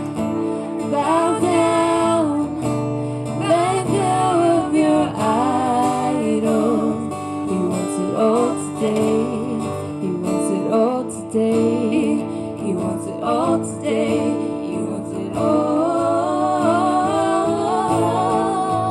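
Acoustic guitar played with a voice singing a worship song.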